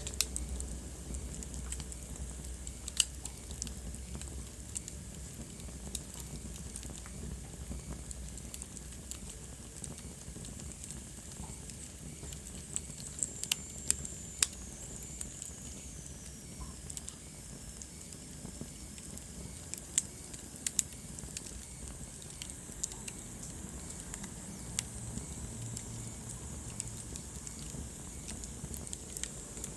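Wood fire crackling in a fireplace: irregular sharp pops and snaps over a steady low rumble. About halfway through, a faint high whistle slowly falls in pitch.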